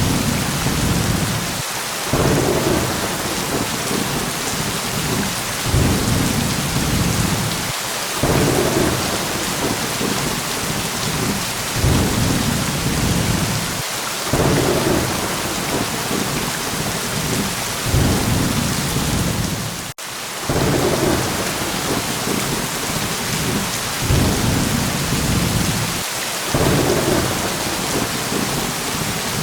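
Steady heavy rain with low rolling thunder that swells every few seconds. There is a momentary dropout about two-thirds of the way through.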